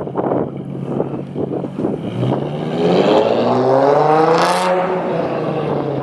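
Infiniti G37xS's 3.7-litre VQ37HR V6 exhaust, straight-piped with the muffler and resonator deleted. It idles, is blipped once about two seconds in to a raspy peak, and drops back to idle. Wind buffets the microphone.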